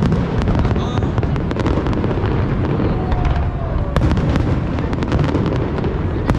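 Aerial fireworks bursting in quick succession: many sharp bangs and crackles over a constant low rumble, with a louder crack about four seconds in.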